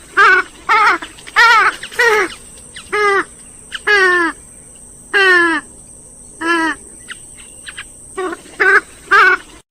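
Grey-headed swamphen calling: about a dozen short, loud calls in irregular groups, several with a wavering pitch that bends downward at the end.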